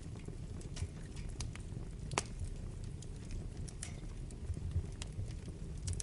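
Wood fire burning in a fireplace: a steady low rumble of flames with scattered sharp crackles and pops, one louder pop about two seconds in.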